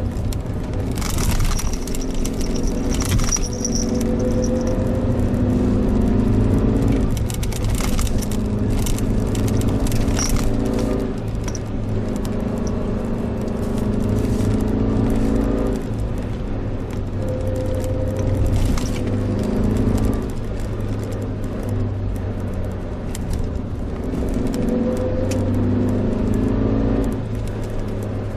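Suzuki Jimny Sierra's engine running under way, its pitch rising and falling every few seconds as the throttle and gears change, with light clicking and rattling over it.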